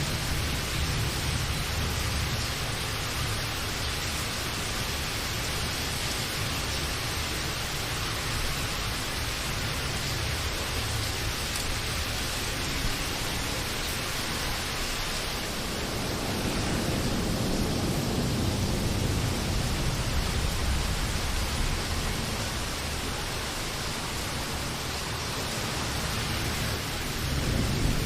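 Steady, even rain hiss, with low rolling thunder that swells in the middle and again near the end.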